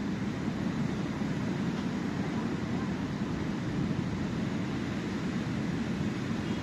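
Sea surf: a steady low rush of waves on the shore.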